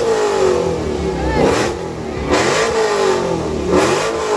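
Car engine revved repeatedly through its exhaust, about four blips, the pitch jumping up on each blip and sliding back down as the revs fall.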